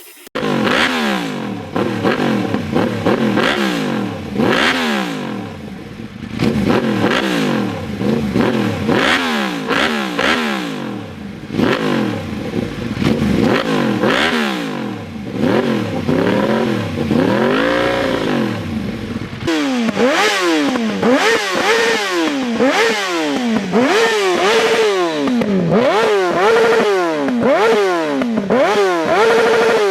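Yamaha R1 inline-four engine revved repeatedly through its exhaust, the pitch rising and falling about once a second. About two-thirds of the way through, the sound cuts to another recording of the same kind of rev blips.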